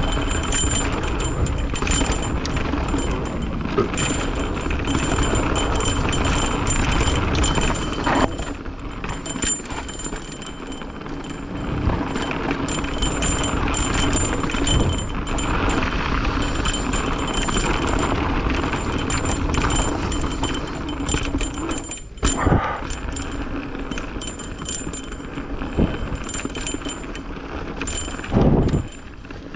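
Mountain bike rolling along a dirt trail: steady tyre and ride noise with frequent rattles and knocks from the bike.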